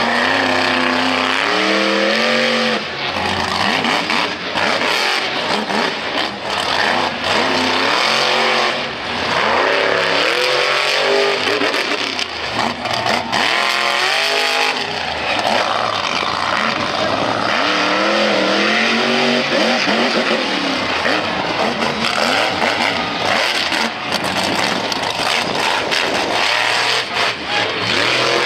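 Monster truck engine run hard, its pitch rising and falling again and again as the throttle is blipped and held, over a constant roar.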